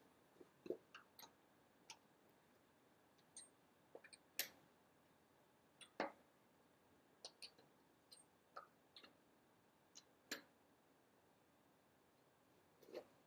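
Near silence broken by scattered faint clicks and small knocks, irregularly spaced and a dozen or so in number.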